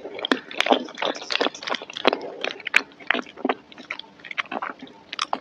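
Close-miked wet chewing and mouth smacks of someone eating creamy macaroni and cheese, an irregular run of sharp clicks about three a second.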